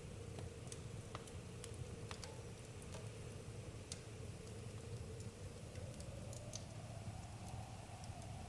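Wood campfire crackling, with irregular sharp pops and snaps over a steady low rumble, and a faint thin whistle that rises slightly in pitch near the end.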